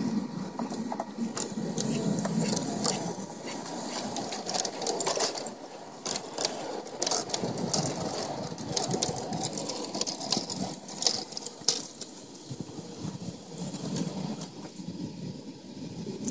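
G scale model train running: a steady mechanical whir from the locomotive's motor, gears and wheels on the track, with many irregular sharp clicks.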